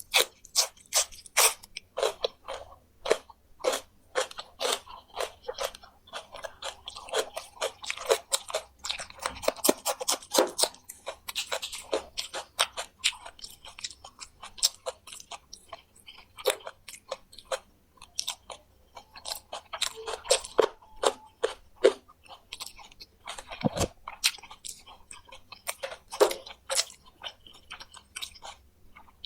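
Close-up chewing and crunching through fried quail with the bones: rapid, irregular sharp crunches, several a second, with quieter stretches between bites. The small bones are crunched through whole, hard and sharp enough to cut the mouth.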